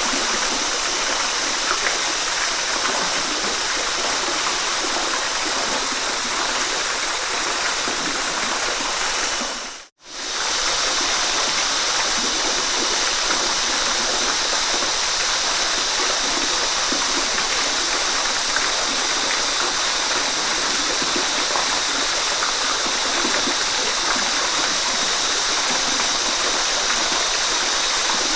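Waterfall: a steady, even rush of falling water with a bright hiss. About ten seconds in, it fades out to silence for a moment and comes straight back.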